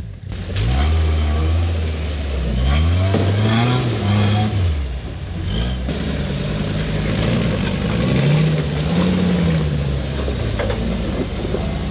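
Off-road rock-crawling rig's engine revving up and down repeatedly as it works up a climb, its pitch rising and falling several times.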